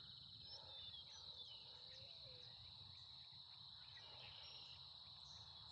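Faint outdoor ambience: a steady, high-pitched drone of insects, with scattered faint bird chirps.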